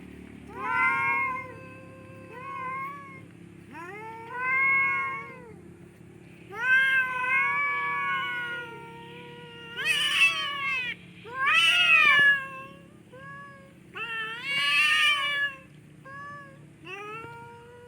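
Domestic cats yowling at each other in a fight standoff: about ten long, wavering calls one after another, those in the middle and near the end rough and harsh.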